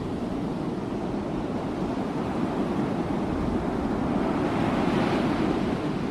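Ocean surf: a steady wash of waves on the shore that swells and hisses louder as a wave breaks about five seconds in.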